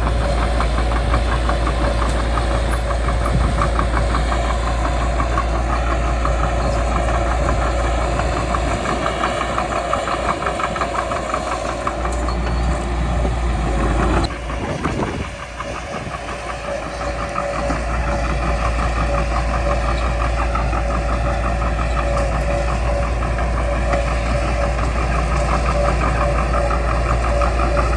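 Caterpillar D3C crawler bulldozer's diesel engine running steadily, dipping in level for a couple of seconds about halfway through and then coming back up.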